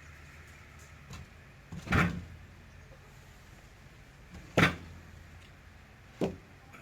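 Three sharp knocks, about two seconds apart, with a smaller tap before the first, over a faint low hum.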